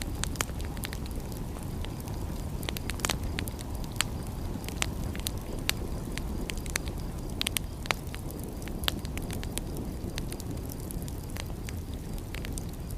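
Wood fire crackling: frequent sharp, irregular pops and snaps over a steady low rumble.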